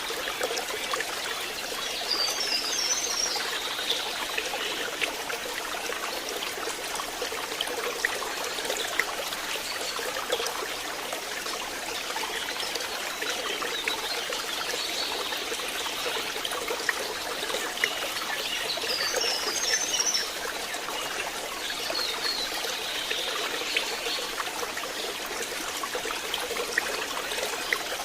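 Stream water trickling and splashing steadily over stones, with a few short high chirps about two seconds in and again near the end.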